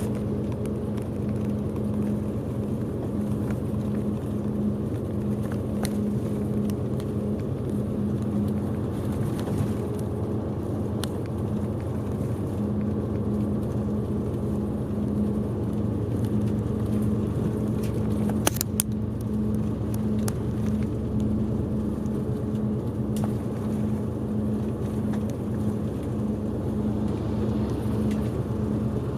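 Steady engine and road noise heard inside a moving bus's cabin, with a constant low drone. A brief click sounds about eighteen seconds in.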